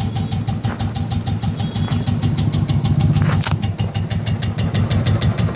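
Royal Enfield single-cylinder engine idling with an even, fast 'tik tik' ticking, about eight to nine ticks a second, briefly louder a little past halfway. The uploader puts the tick down to the decompressor gear and calls it not a big issue.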